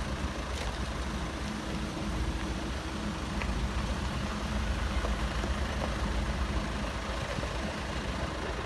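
Heavy machine's engine running steadily with a low rumble, as from an excavator, backhoe or hauling truck during unloading.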